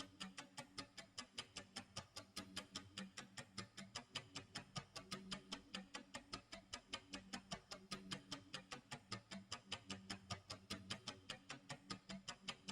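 Timer tick-tock sound effect: quiet, even clock-like ticking at about four ticks a second, with a faint low tone coming and going underneath.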